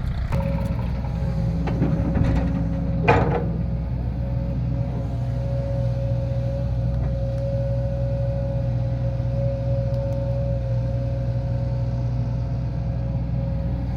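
Tractor diesel engine running steadily under load, with a steady whine above the engine note. A brief sharp sound about three seconds in falls in pitch.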